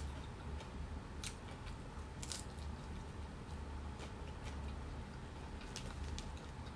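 Faint mouth sounds of biting into and chewing a fried snack, with a few scattered crisp clicks. A low steady hum runs underneath.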